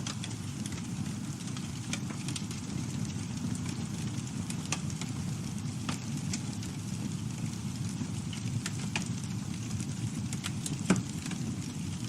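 Campfire burning with a steady low rush of flame and scattered wood crackles and pops, one sharper pop near the end.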